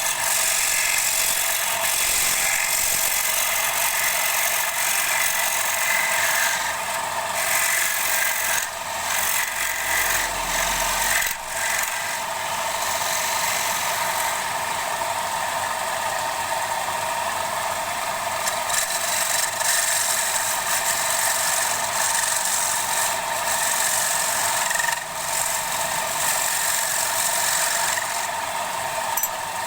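Wood lathe running, with a steady scraping of the spinning wood as it is worked into a bowl, broken by brief dips a few times.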